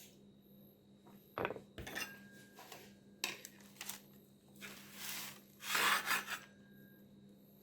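Kitchen utensils and dishes being handled: a few sharp knocks, then two longer scraping strokes near the middle.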